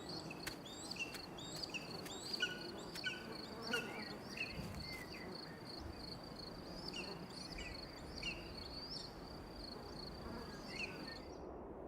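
Outdoor ambience of a steady, rapidly pulsing high-pitched insect trill with scattered short bird chirps over it. The sound cuts off suddenly near the end.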